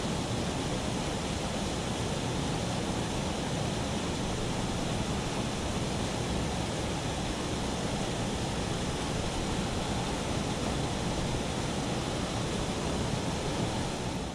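Steady rushing water, even and unbroken, like a beck or waterfall.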